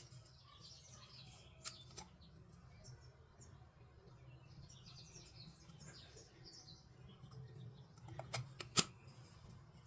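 Faint bird chirping in the background, with a few sharp clicks and taps as toys are handled. The loudest click comes near the end.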